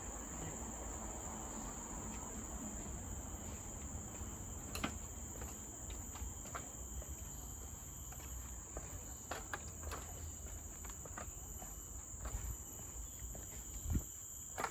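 A steady, high-pitched chorus of forest insects, with scattered light clicks and a couple of soft thumps, the loudest near the end.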